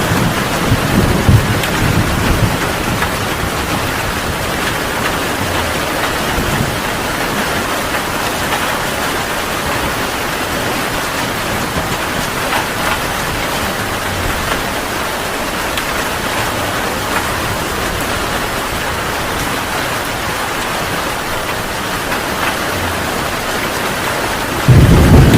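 Heavy rain falling in a steady hiss. Low thunder rumbles in the first couple of seconds, and a louder low rumble of thunder comes in suddenly near the end.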